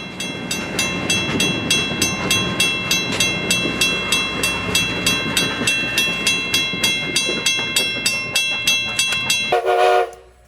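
Train running past with a steady rumble, while a bell strikes rapidly, about four times a second. The sound cuts off abruptly near the end.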